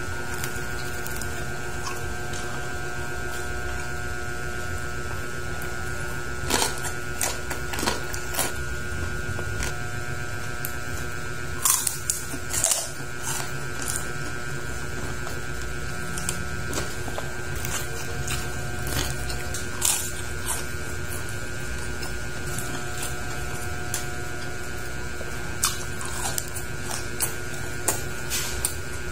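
Crunching and chewing of crispy deep-fried pork head skin, heard as scattered crackly bursts, loudest about twelve seconds in, over a steady electrical hum.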